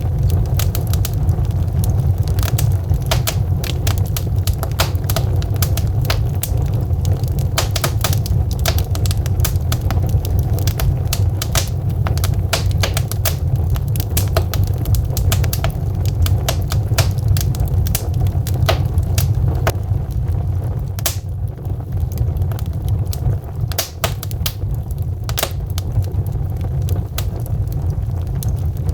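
Logs burning in a fireplace, crackling with many irregular sharp pops over a steady low rumble.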